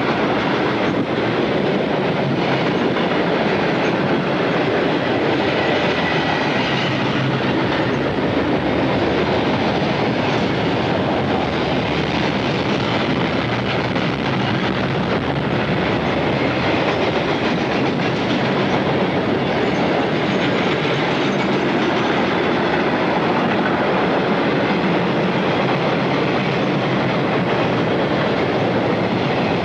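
A train's cars rolling past, with a steady, continuous noise of steel wheels on the rails.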